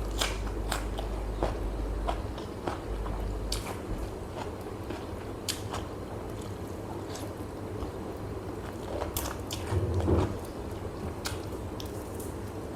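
Close-up eating sounds: a person biting and chewing food, with crisp crunches and wet mouth clicks scattered irregularly, a little louder about ten seconds in. A low hum sits under the first few seconds.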